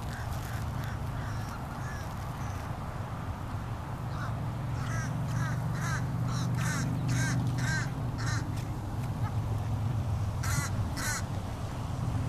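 A bird calling in a quick series of short, harsh calls about halfway through, then twice more near the end, over a steady low hum.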